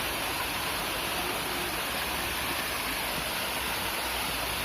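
Mountain spring-water stream running, a steady rush of flowing water.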